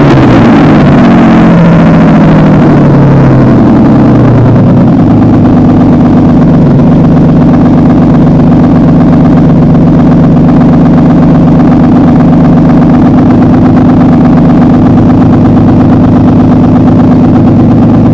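Ford 2.9-litre V6, lately full of water, running with no exhaust fitted, loud and kind of noisy. The revs fall over the first few seconds, then it settles into a steady idle, running pretty good.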